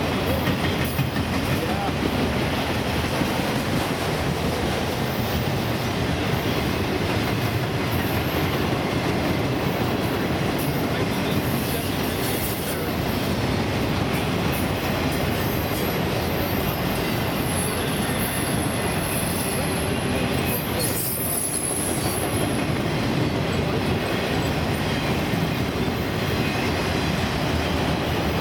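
Empty autorack freight cars rolling past at speed: a steady rumble and rattle of steel wheels on rail. A thin, high-pitched wheel squeal rings out for several seconds past the middle.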